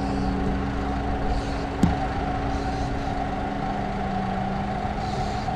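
Cat D6K2 dozer's diesel engine running steadily, with a single sharp knock about two seconds in.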